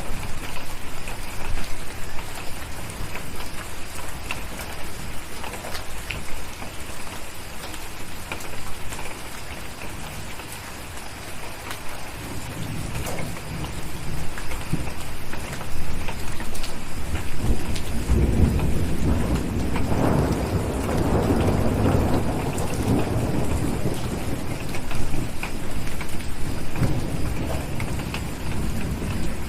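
Steady rain with scattered sharp crackles of a fireplace. A low rumble of thunder builds about twelve seconds in, is loudest a little past the middle, and dies away near the end.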